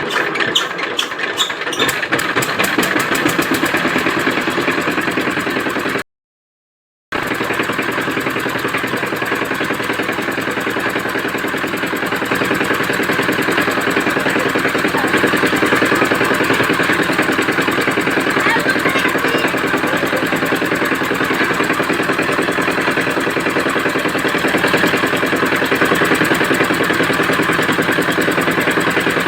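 Single-cylinder diesel engine of a walk-behind power tiller, freshly started, picking up speed over the first couple of seconds and then running steadily with an even chugging beat. The sound cuts out completely for about a second around six seconds in.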